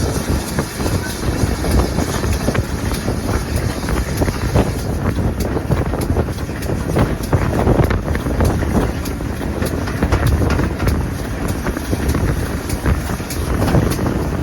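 Steady rumble of a moving train, heavily overlaid by wind buffeting the microphone, with faint rapid clicks over the second half.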